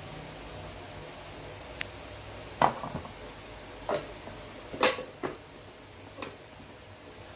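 Six or so separate sharp knocks and clicks of hard objects being handled and set down, the two loudest a little under 3 s and about 5 s in.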